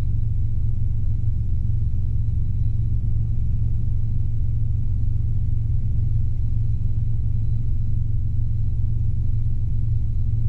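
Robinson R22 helicopter in straight and level forward flight, its engine and rotors making a steady, unbroken low drone.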